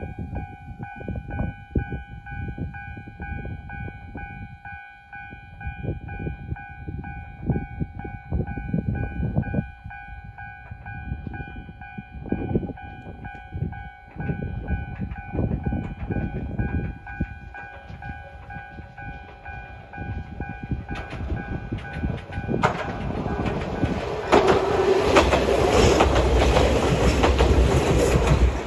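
Ichibata Electric Railway 2100-series electric train (ex-Keio 5000 series) approaching along the line and passing close by. It is faint at first under gusts of wind on the microphone, grows louder from about 21 seconds in, and is at its loudest as a dense rumble of wheels on rail over the last five seconds.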